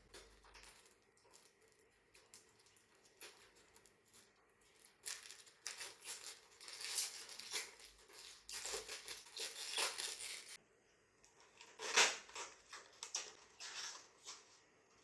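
Handling noise: irregular rustling, rubbing and small clicks of small objects being handled. They come thickest in the middle, with a sharper click-and-rustle about twelve seconds in.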